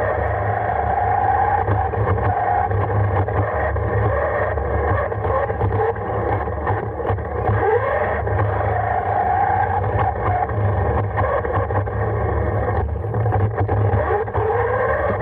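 Radio-controlled car's electric motor and gears whining as it drives, the whine rising and falling with speed, over a steady low hum and rumbling with small knocks from the ride, heard from a camera mounted on the car.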